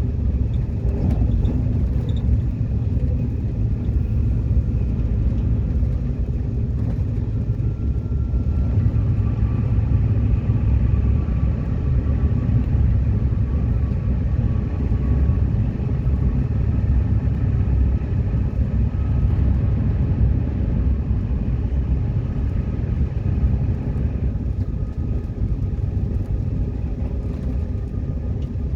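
Train running, heard from inside the carriage: a steady low rumble, with a faint thin whine over it for a while in the middle.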